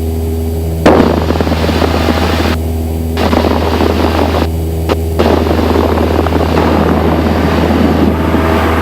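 Cessna 172SP's four-cylinder Lycoming engine and propeller droning steadily in flight, as heard in the cockpit through the headset audio. Loud bursts of hiss cut in and out abruptly over it, the first starting sharply about a second in.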